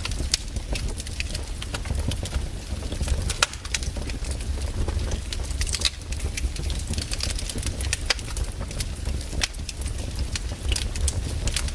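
Wood campfire crackling, with frequent sharp pops at irregular intervals over a steady low rumble.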